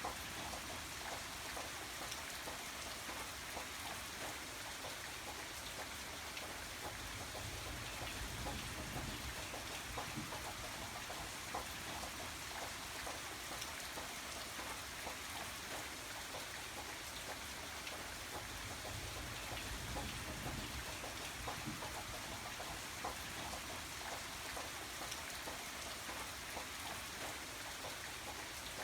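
Steady rain falling, with many individual drops pattering on a surface over a continuous hiss.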